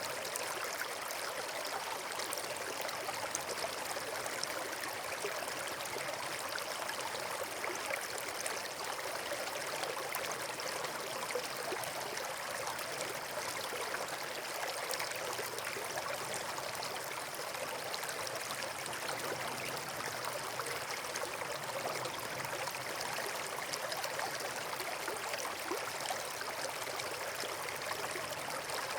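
Running water rushing steadily, as from a stream or small waterfall, with no change in level.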